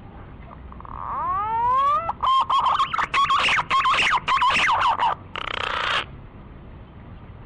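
Green pigeon (Treron) song: a few rising whistles, then a run of quick, warbling fluty notes, ending in a short rasping noise. Faint steady hiss underneath.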